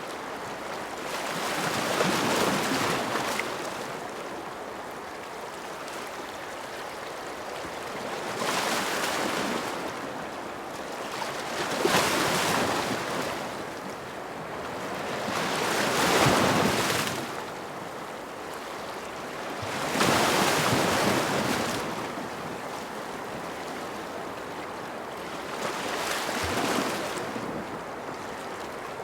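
Ocean waves breaking and washing ashore, the surf swelling and falling back about six times, every few seconds.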